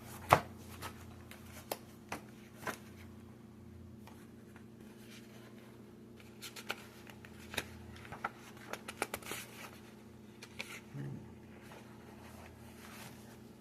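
Sheets of drawing paper being handled: scattered rustles and light taps, with a sharp tap just after the start and a busier run of rustling about six to ten seconds in, over a steady low hum.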